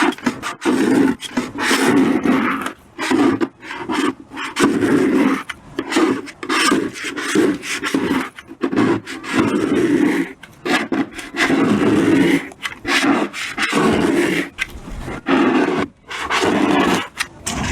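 Repeated rough scraping or rubbing strokes, roughly one a second, each a short rasp with brief pauses between.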